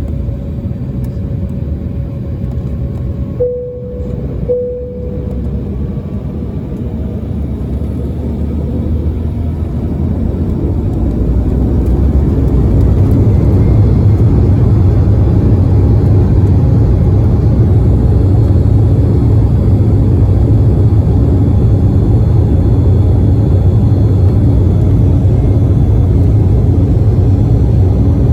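Embraer 195LR's twin turbofan engines spooling up for takeoff: a steady rumble swells over several seconds with a faint rising whine, then holds loud and steady at takeoff power. Two short tones sound a few seconds in, before the power-up.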